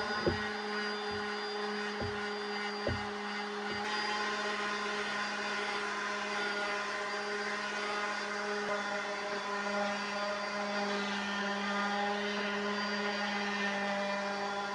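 Electric sander running steadily against a wooden dresser drawer, sanding out stains with 100 grit paper, with a few light knocks in the first three seconds.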